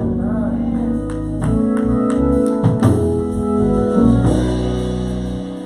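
Organ playing held chords, moving to new chords about one and a half seconds in and again around four seconds.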